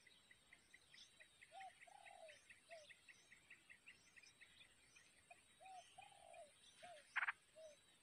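Faint wild birds calling: a quick run of high chirps, about four a second, fading after the first half, and two short groups of lower notes. Under them a steady high insect buzz. A short sharp burst near the end is the loudest sound.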